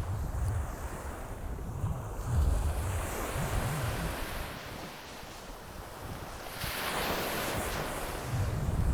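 Ocean surf washing onto the beach, with a wave rushing in about seven seconds in, while wind buffets the microphone in low gusts.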